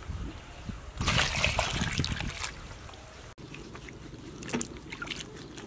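Water splashing and trickling, loudest from about one to two and a half seconds in, then cutting off abruptly and giving way to a quieter steady background with a few small clicks.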